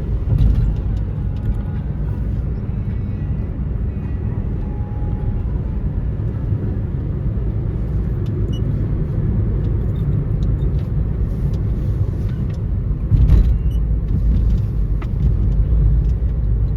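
Steady low engine and road rumble heard from inside a moving car, with a brief louder knock about three-quarters of the way through.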